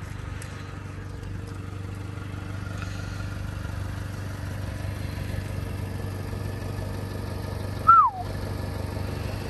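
A 2015 Chrysler 200's engine idling with a steady low hum. About eight seconds in there is one short, falling chirp.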